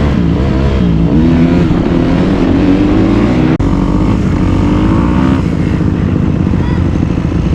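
Dirt bike engine being ridden hard, its pitch rising and falling with the throttle, with a momentary drop-out about three and a half seconds in.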